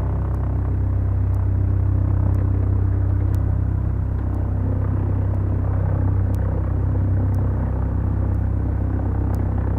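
The two Lycoming four-cylinder engines and propellers of a Beechcraft Duchess twin running steadily in a low, even drone.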